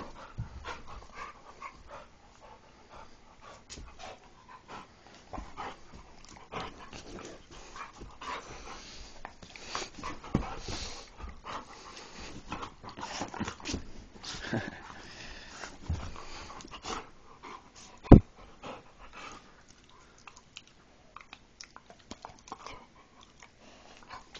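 A mixed-breed dog (Dogo Argentino–Rottweiler cross) panting and moving about close to the microphone, with scattered small clicks and rustles. A single sharp knock stands out about three quarters of the way through.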